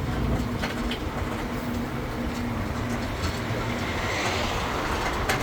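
Tourist road train running, heard from on board: a steady engine hum and rolling noise, with a few light rattles.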